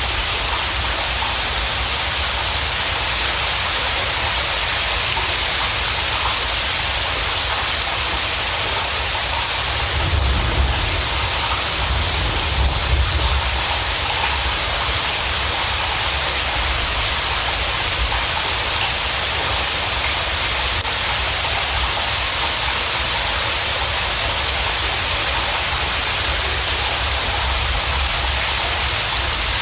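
Steady rain falling on a surface, an even continuous patter, with a brief low rumble a little after a third of the way in.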